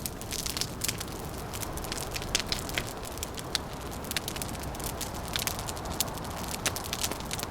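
Wood fire crackling, with frequent sharp irregular pops and snaps over a steady low rushing noise.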